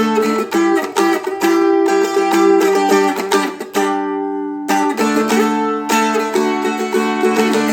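Seagull Merlin, a four-string dulcimer-style instrument, strummed in quick strokes over a ringing drone string. About four seconds in the strumming stops briefly and the chord rings out, then the strumming starts again.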